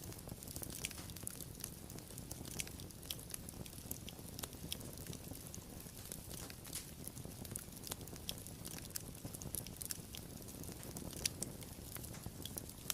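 Wood fire burning and crackling, with irregular sharp pops and snaps over a soft low rumble of the flames.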